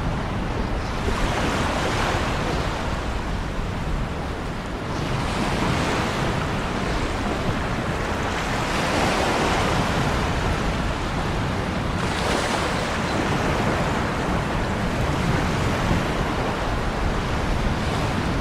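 Ocean surf: a steady rush of waves, with a wave swelling and washing in every three to four seconds.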